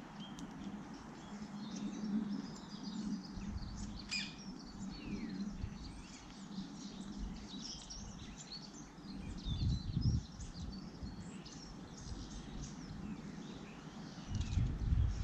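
Garden birds chirping and singing, many short overlapping calls and trills, over a low background hum. Low rumbles come in briefly about ten seconds in and again near the end.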